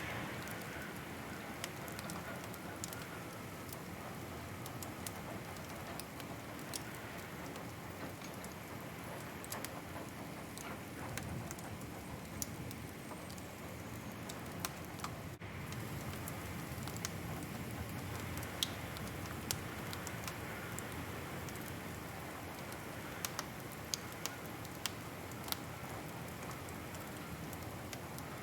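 Wood fire crackling: a steady soft hiss under scattered sharp snaps and pops, with a few louder pops in the second half.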